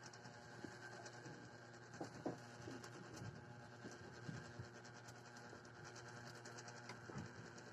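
Near silence: room tone with a faint steady low hum and a few scattered soft ticks.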